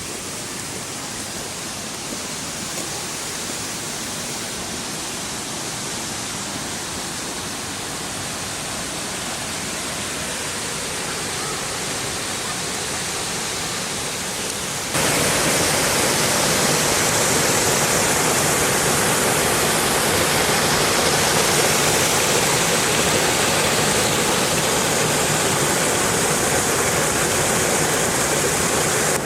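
Waterfall rushing with a steady, even noise that grows slowly louder, then jumps suddenly louder about halfway through.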